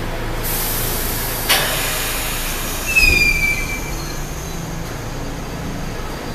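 R68 subway train's steel wheels squealing on the rails over a steady low hum. A high hiss runs for about a second and ends in a sharp click. About three seconds in, a loud squeal slides slightly down in pitch.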